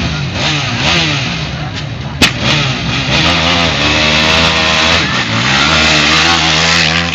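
Racing motorcycle engines revving, their pitch rising and falling about once a second, with a sharp crack a little over two seconds in; after that the engines hold at high revs with several engine notes at once.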